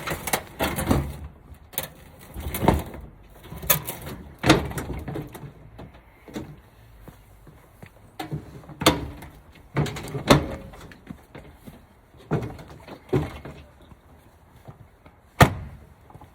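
Irregular knocks, bumps and scrapes as a heavy washing machine is shoved and shifted about on a truck's liftgate, with one sharp bang near the end.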